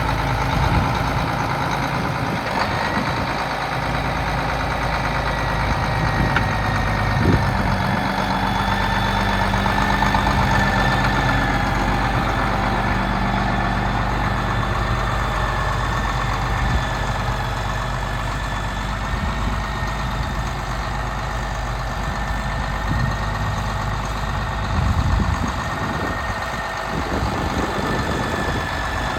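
Case 2390 tractor's six-cylinder turbocharged diesel idling steadily, with a thin high whine over the engine note.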